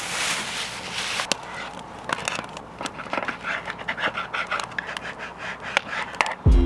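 Dogs barking repeatedly and irregularly, in short separate bursts.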